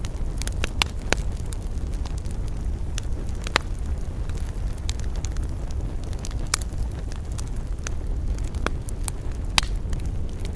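Wood campfire crackling, with irregular sharp pops, a handful of them louder than the rest, over a steady low rumble.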